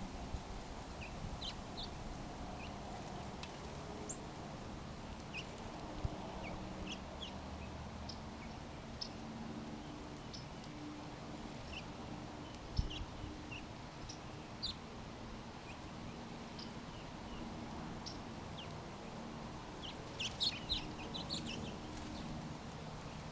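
Small birds at backyard feeders giving short, high chirps scattered throughout, with a quick flurry of them near the end, over a low steady background.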